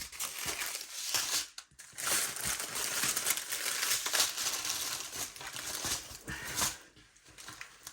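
Crinkling and rustling of packaging being handled, stopping shortly before the end.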